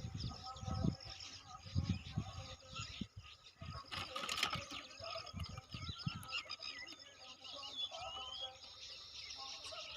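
Small birds chirping and twittering throughout, over dull thumps in the first six seconds and a brief rustling noise about four seconds in.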